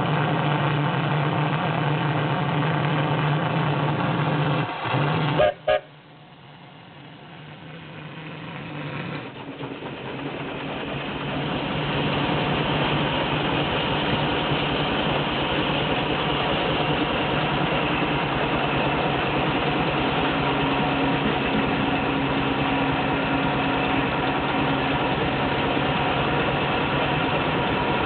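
Steam traction engine's safety valve venting excess steam: a loud, steady hiss with sustained tones through it. About five seconds in it cuts off after a couple of sharp clicks, then builds back up over several seconds to a steady hiss.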